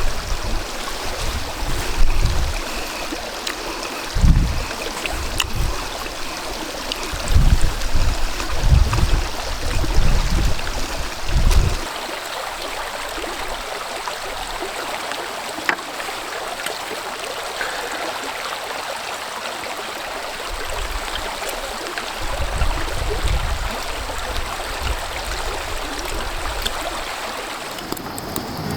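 Strong gusty wind, a steady rush with heavy low gusts buffeting the microphone through the first half and again near the end.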